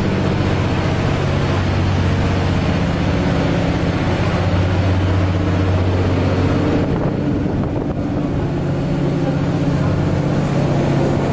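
Twin Yuchai YC6T480C six-cylinder marine diesel engines running steadily at full speed, around 1,860 rpm: a constant deep drone under a broad hiss. About seven seconds in, the higher hiss drops away for a second and then returns.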